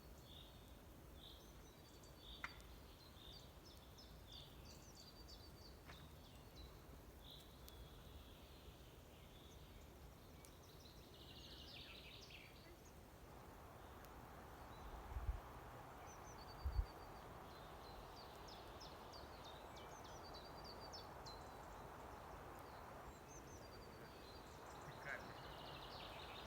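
Faint songbirds singing, short chirping phrases repeated throughout. A soft rushing noise rises in the middle, with two low bumps about halfway through.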